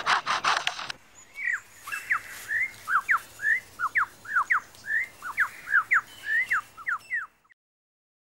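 Superb lyrebird mimicking a chainsaw as a harsh, rapidly pulsing rasp that breaks off about a second in. It follows with a quick run of clear whistled notes, most of them sliding down in pitch, which stop abruptly near the end.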